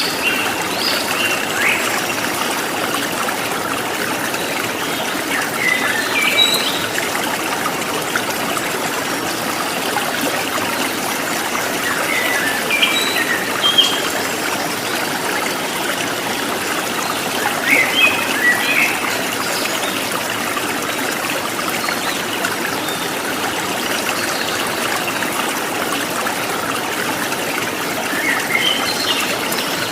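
Steady trickling stream water, with short groups of bird chirps heard every few seconds, around five times.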